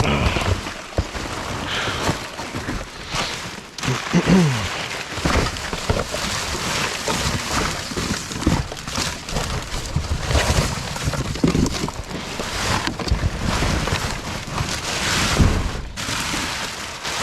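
Plastic trash bags rustling and crinkling as they are handled and rummaged through, with scattered knocks of things shifting inside the dumpster.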